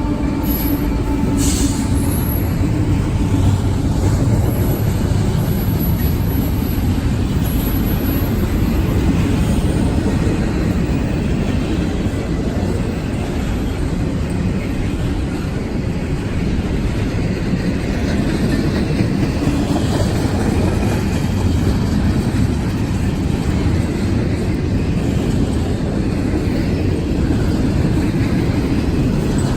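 CSX intermodal freight train rolling past, a steady loud rumble of its cars' wheels on the rails, with a few faint high wheel squeals in the first several seconds.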